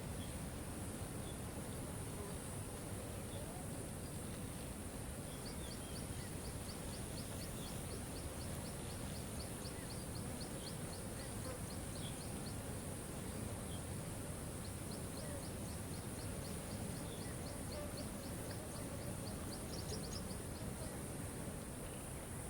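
Steady rush of a waterfall under birdsong: a high, rapid chipping note repeated about four to five times a second in two long runs, with scattered single chirps between.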